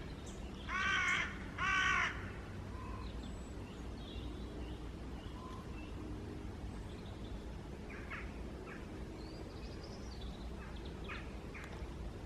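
A crow cawing twice, loud and close, within the first two seconds, then fainter short calls later on and a few small high bird chirps, over a steady low rumble.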